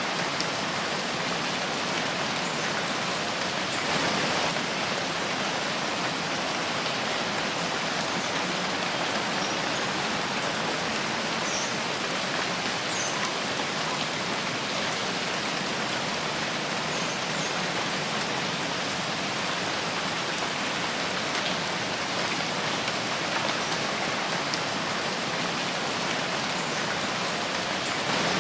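Steady rain falling in a forest: a dense, even hiss of drops on leaves and ground, swelling slightly for a moment about four seconds in.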